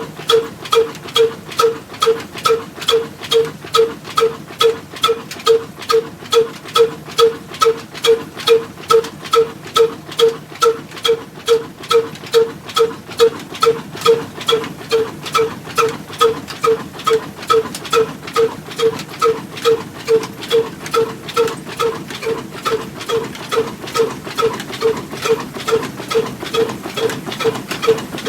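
Slow-running single-cylinder diesel oil engine running steadily, with an even beat of about two exhaust pops a second.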